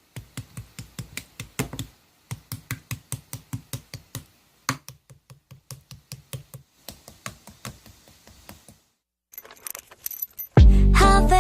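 Slime being squeezed and poked, making a rapid run of sticky clicking pops at about five a second, then a pause and a few scattered clicks. A K-pop song starts loudly near the end.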